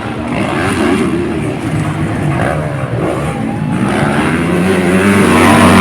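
Several motocross bikes' engines running and revving together, their pitches rising and falling over one another and growing louder toward the end.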